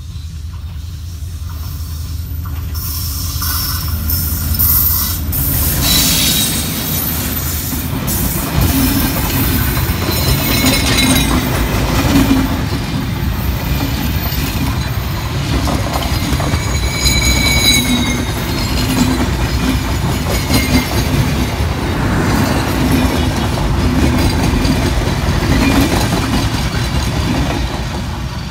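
Passenger train passing close by at speed: the rumble of the approaching locomotive building over the first few seconds, then the steady roar of coaches' wheels on the rails with a rhythmic clatter over the rail joints. Brief high wheel squeals come through a couple of times.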